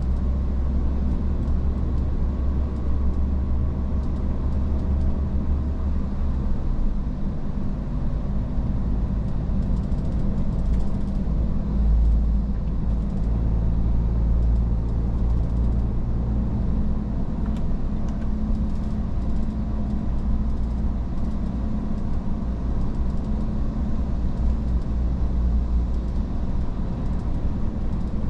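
Iveco S-Way truck driving on the road, its diesel engine and tyres making a steady low rumble. The engine note shifts about seven seconds in.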